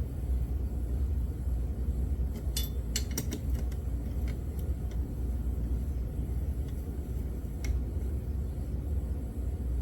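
A few light metallic clicks and clinks of bolts and hand tools being handled on an engine's crankcase, bunched about two and a half to three and a half seconds in with a single click near the end. A steady low rumble runs under them throughout.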